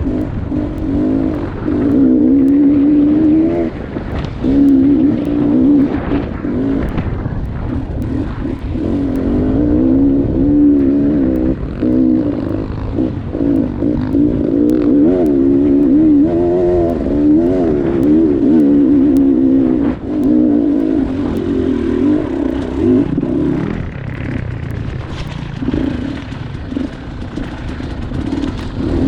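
Dirt bike engine on a hill climb, its revs rising and falling constantly as the throttle is worked, with a short drop in revs about two-thirds of the way through.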